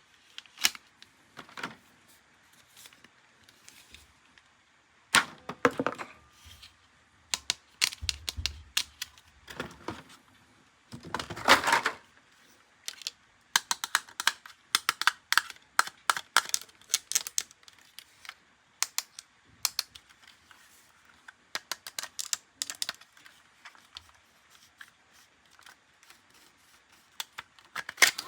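Plastic toys and packaging being handled: an irregular run of sharp clicks, snaps and taps, with a few short rustling bursts.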